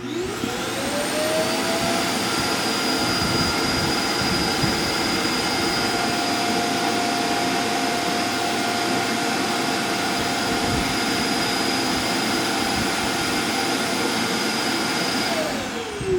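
A vacuum motor starts with a rising whine, runs steadily and loudly for about thirteen seconds, then winds down near the end with a falling tone. The sound fits the suction motor of the Neabot Q11's self-emptying dock pulling the dirt out of the robot's bin.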